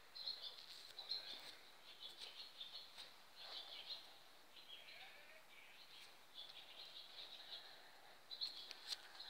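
Faint birdsong: short chirping phrases following one another, with a few soft clicks near the end. Birds singing in the dark before dawn, the start of the dawn chorus.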